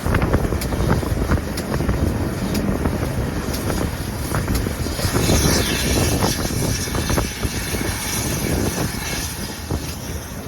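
A train on a heritage railway running, a steady rumble with many short clicks, and wind buffeting the microphone. A hiss rises about five seconds in and fades again near the end.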